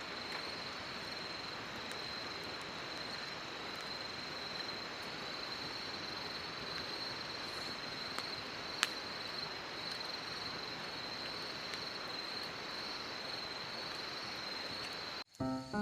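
Insects trilling steadily in a high, unbroken chorus over a constant hiss, with one sharp click about nine seconds in. It cuts off suddenly near the end as music begins.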